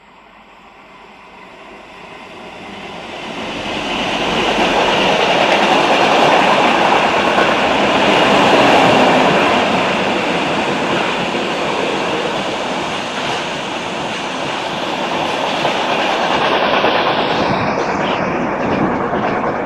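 A Renfe train approaching and running past: the noise of its wheels on the rails grows louder over the first four seconds, then stays loud and fairly steady as the train goes by.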